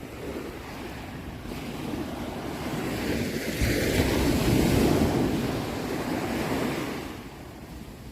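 Ocean wave breaking on the shore: the surf noise swells, peaks about halfway through, then washes out and fades.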